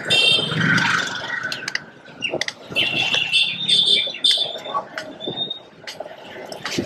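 Busy street ambience with repeated high chirps or squeaks at the start and again in the middle, over a low hum of traffic, with scattered clicks.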